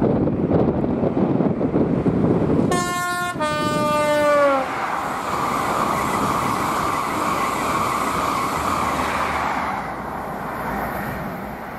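Express passenger train passing at speed. Its two-tone horn sounds about three seconds in, a short high note then a longer low note that slides down in pitch as the front of the train goes by. After that comes the steady rush of the coaches passing, which drops away near the end.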